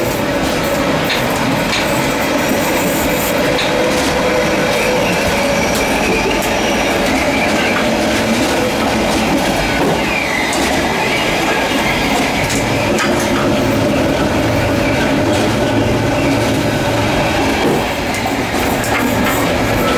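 Zentralbahn train running, heard from inside the gangway between two cars: a loud, steady rolling rumble of wheels on rail with frequent sharp clanks and rattles and high squealing tones at times.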